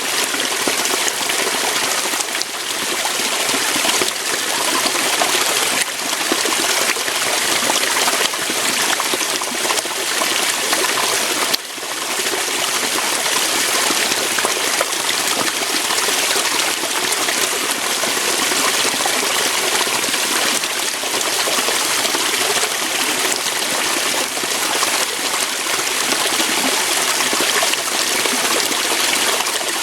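Waterfall: a steady, dense rush of water flowing over rocks, with one momentary dip in level a little before halfway.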